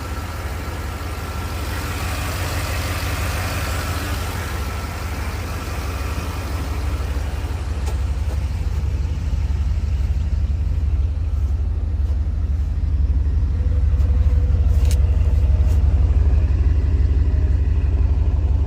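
Chevrolet Tahoe's 5.3-litre V8, freshly fitted with a Sloppy Stage 2 cam and still untuned, idling with a deep, choppy low rumble. It gets somewhat louder toward the end, with a few faint clicks in the second half.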